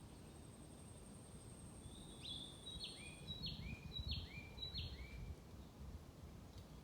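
A small songbird repeats a two-note phrase, a higher note then a lower slurred one, about six times in quick succession, starting about two seconds in. Underneath are soft low footsteps on a forest path, and a thin high steady tone fades out partway through.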